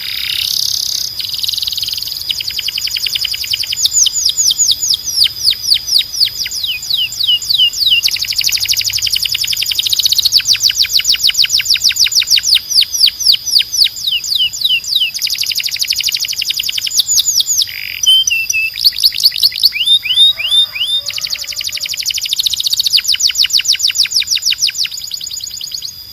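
Domestic canary singing a long song of rapid trills, each a fast run of repeated falling notes, in phrases broken by brief pauses and a few slower down-slurred notes. A steady thin high tone runs underneath.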